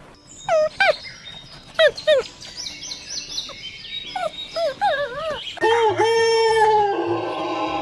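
A series of short animal calls, each sliding steeply down in pitch, then a rooster starting to crow with a long held call that turns harsher near the end.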